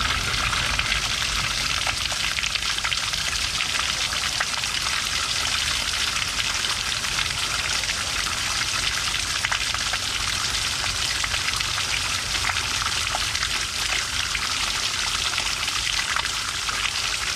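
Steady rain falling, a dense patter of drops hitting a hard surface.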